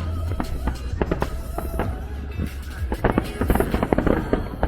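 Fireworks bursting over show music with a steady bass, with a quick run of crackling bangs about three seconds in.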